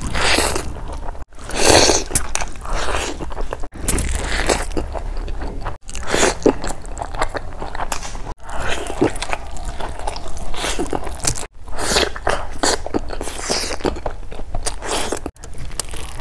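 Close-miked chewing and biting of big handfuls of lemon rice with chicken curry, in a run of short clips that each break off abruptly every two to four seconds.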